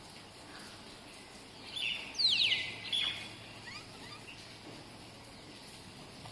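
A bird calling about two seconds in: a short note, then quick falling whistles, with another brief note just after and a fainter call a second later. Steady background noise runs under it.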